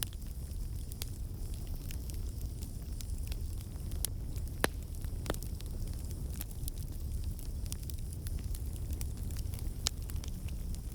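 Campfire burning: a steady low rumble of flames with irregular crackles and sharp pops of burning wood, two louder pops about halfway through and near the end.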